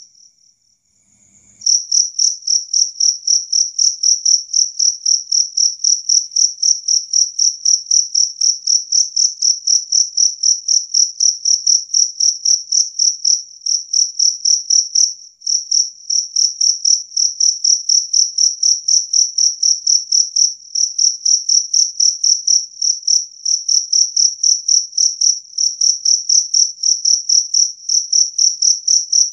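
Jangkrik kalung cricket (two-spotted field cricket) chirping loudly in a steady, high-pitched rhythm of about three chirps a second. It is silent for the first second and a half, then starts up again and keeps going.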